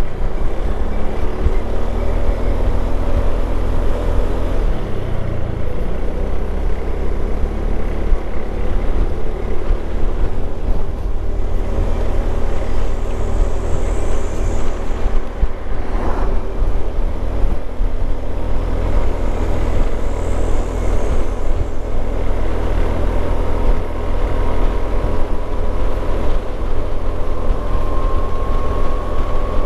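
Motorcycle engine running steadily while riding, under heavy low wind rumble on the microphone, with the engine note rising slowly near the end.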